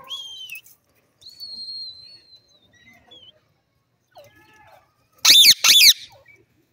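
Indian ringneck parakeet calling: a short wavering call, then a long high whistle held for about a second and a half, then two loud, harsh screeches in quick succession about five seconds in.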